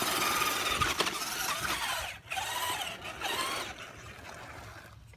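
Electric RC car motor whining as it drives over rough ground, its pitch rising and falling with the throttle, with brief let-offs and a fade near the end.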